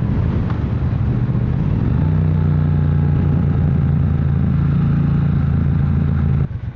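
Triumph motorcycle engine running under way, its note shifting about two seconds in. The sound drops off sharply near the end as the throttle is closed.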